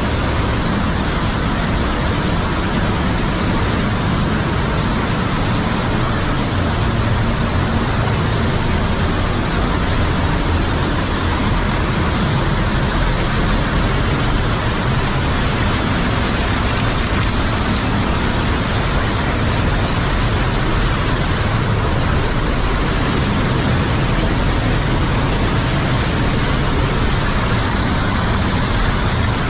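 Underground cave waterfall swollen by several days of rain, a loud, steady roar of falling water.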